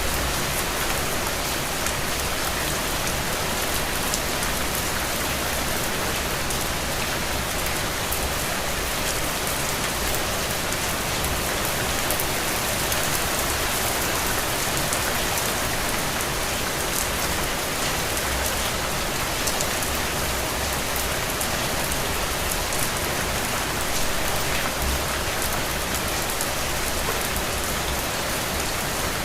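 Steady rain falling, a constant hiss with many small drop patters.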